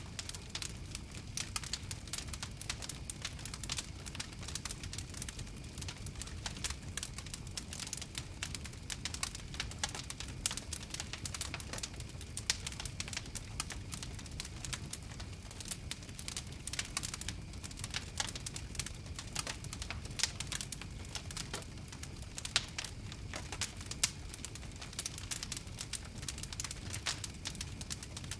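Wood fire crackling: many quick, irregular pops and snaps over a steady low rumble.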